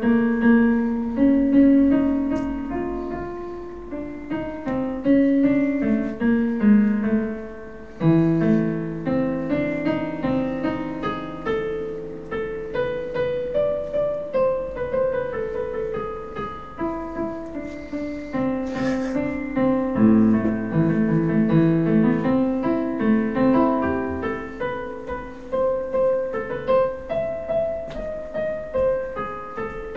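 Solo piano music: a recorded piano tune playing continuously, note after note with chords in the lower register.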